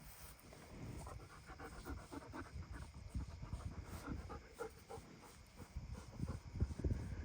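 German Shepherd Dog panting fast, about four or five breaths a second, close to the microphone. Low rumbles and thumps run underneath, loudest near the end.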